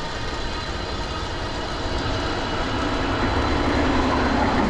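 Wind rushing over the microphone and road noise from an e-bike riding at speed, growing gradually louder toward the end.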